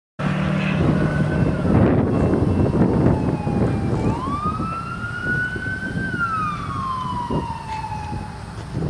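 Emergency vehicle siren wailing, its pitch falling, rising about four seconds in, and falling slowly again, over a steady rumble of traffic or wind noise.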